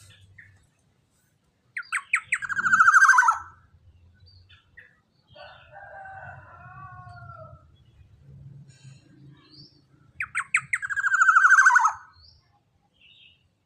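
Young black-naped oriole calling: two loud harsh calls about eight seconds apart, each opening with a quick run of notes and sliding down into a drawn-out nasal note. Softer descending whistled notes fall between them.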